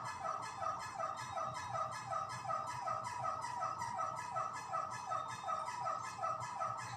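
Electric fan running with a strange repeating squeaky chirp, about four chirps a second, keeping an even rhythm.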